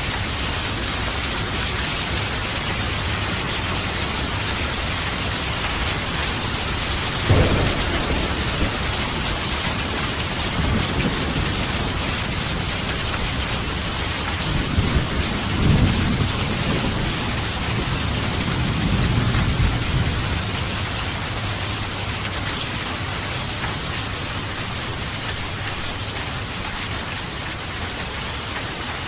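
Steady heavy rain with thunder: a sharp clap about a quarter of the way in, then a longer rolling rumble around the middle.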